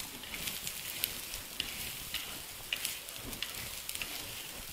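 Fried chicken pakodas and onion tempering sizzling in a little oil in a clay pot while a spatula stirs them, with scattered crackles and pops.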